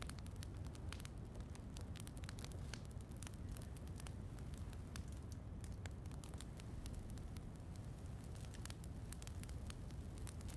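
Wood fire crackling in a fireplace, with many small irregular pops over a steady low rumble.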